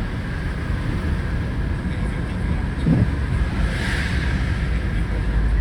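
Steady road noise of a moving car heard inside the cabin: a low rumble of engine and tyres with an even hiss, swelling briefly about four seconds in.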